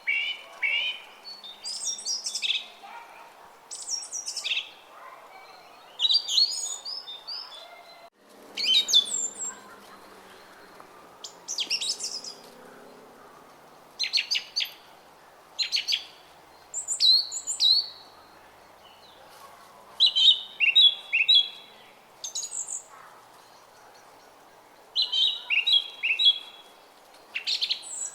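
Songbirds chirping and singing in short repeated phrases, one every second or two, over the faint steady murmur of a running brook.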